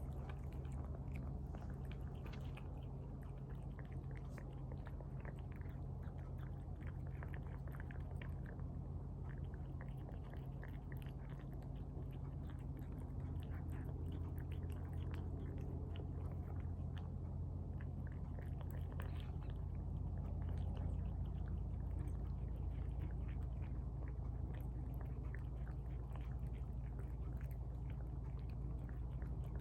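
Cats eating tuna from bowls: close, irregular wet chewing and lapping ticks that go on without pause, over a steady low hum.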